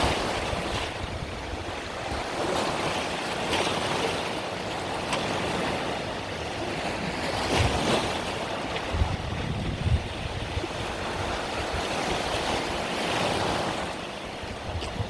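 Sea waves breaking and washing up on a beach in slow, overlapping surges. Wind rumbles low on the microphone now and then, most around the middle.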